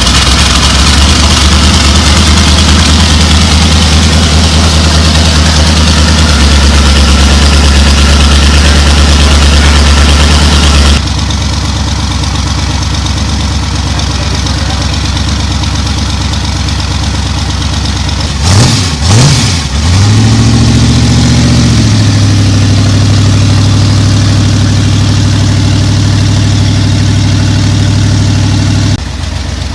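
Chopper trike's V8 engine idling just after starting, with a cylinder that the mechanics suspect is dead and not firing. It is revved up and down briefly about nineteen seconds in, then holds a steady, higher idle, dropping in level a couple of times.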